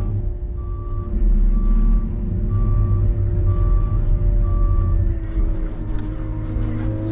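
Plow truck reversing: its back-up alarm beeps about once a second over the running engine, the beeping stopping about five seconds in as the engine note shifts.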